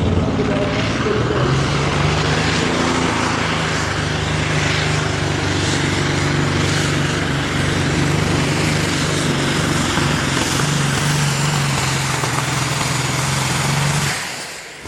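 Competition pulling tractor's engine running loud and steady under load during a pull, cutting off about a second before the end.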